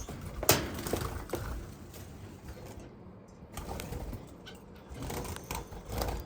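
Cage finches (Gouldian, society and owl finches) chirping and calling in a bird room. A sharp knock comes about half a second in, and a few lighter clicks follow.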